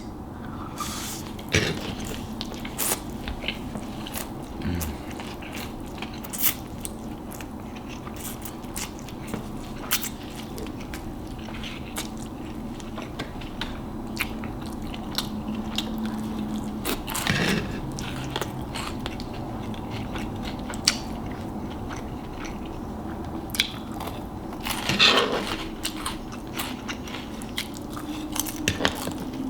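Close-up chewing and biting of spicy noodles mixed with crunchy Flamin' Hot Cheetos, with many short crunches and a few louder bites.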